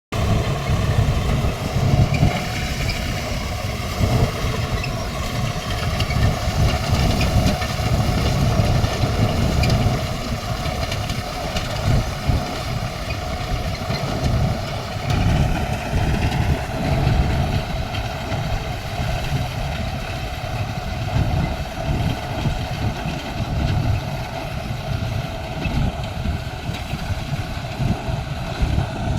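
Heavy diesel engine running steadily during soil loading, with frequent small swells in loudness and a slight change in pitch about halfway through.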